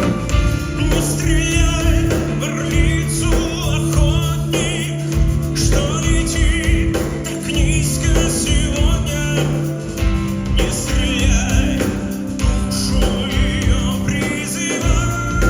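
A male singer's voice with vibrato over band accompaniment, bass and drums. The voice comes in about a second in, and the band plays under it throughout.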